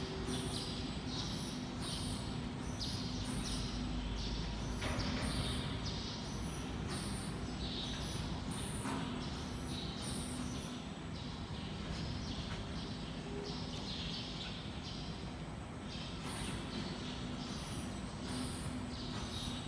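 Small birds chirping in quick, irregular runs over a steady low hum of workshop noise.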